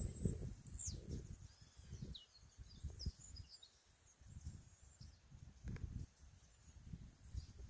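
Birds chirping and calling in short, high, quick notes, over irregular low rumbling thumps.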